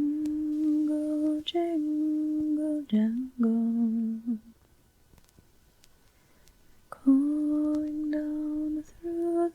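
A woman softly humming a slow, lullaby-like melody in long held notes, in two phrases with a pause of about two and a half seconds between them.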